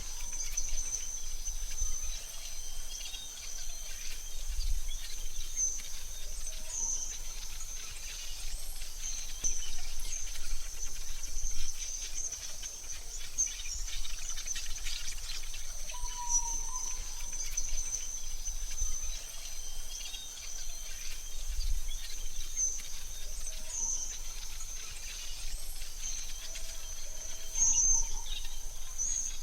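Forest ambience: a steady high-pitched insect drone, with occasional short bird chirps over it.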